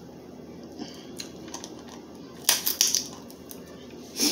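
Crab leg shell cracking and crunching as it is bitten open to get at the meat: a quick cluster of crunches about halfway through and one more near the end.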